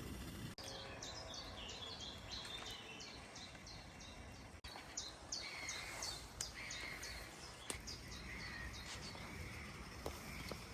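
Wild birdsong: a bird repeats quick, high, falling notes, about five a second, and a lower repeated call joins partway through, over steady outdoor background noise.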